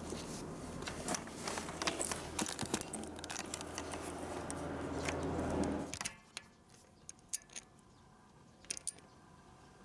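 Suzuki Every van's three-cylinder K6A engine idling, shut off about six seconds in, with light clicks and rattles over it.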